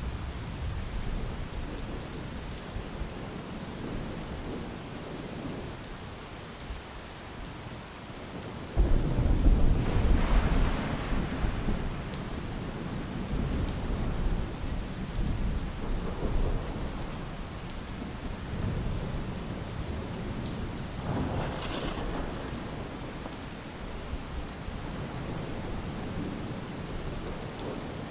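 Steady rain falling, with a sudden loud rumble of thunder about a third of the way in that rolls for several seconds, and a fainter roll of thunder later.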